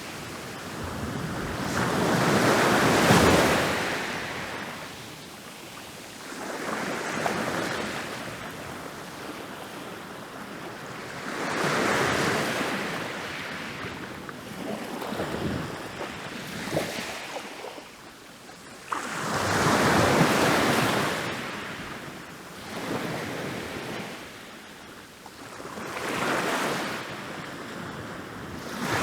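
Ocean waves rolling in and breaking on a beach: swells of surf that rise and fade, a big break about every eight seconds with smaller waves washing in between.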